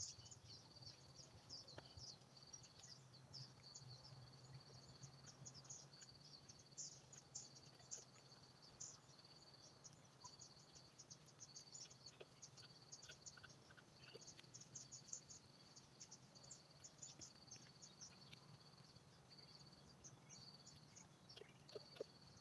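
Faint forest ambience: insects trilling in a high, steady buzz broken into pulses, with many short high chirps scattered over it.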